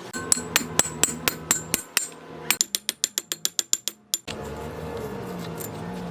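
Rapid mechanical clicking in an even rhythm, about four clicks a second, then speeding up to about eight a second; just past four seconds in it gives way to a steady hum.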